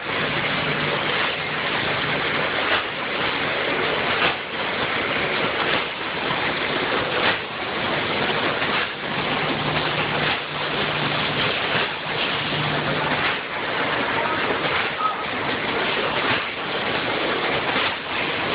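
Vertical form-fill-seal snack packaging machine with multihead weigher running: a steady rushing din with a faint stroke about every second and a half, and a low hum that comes and goes.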